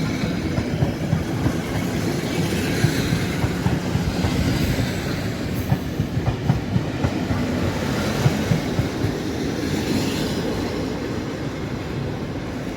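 Passenger train hauled by an EU07 electric locomotive rolling through the station, its carriage wheels clicking rapidly over rail joints and points. It gets gradually quieter toward the end.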